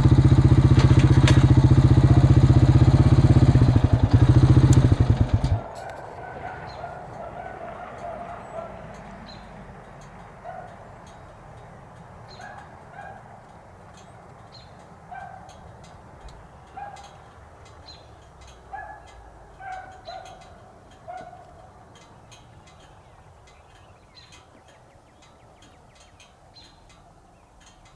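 A vehicle engine idling, shut off abruptly about five or six seconds in. Then comes the faint, distant baying of beagles running a rabbit: short pitched notes in scattered bunches that thin out toward the end.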